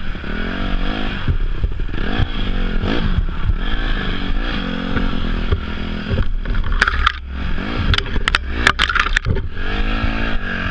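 Enduro dirt bike engine revving up and falling back again and again with the throttle. Several sharp clattering knocks and scrapes come between about six and a half and nine and a half seconds in.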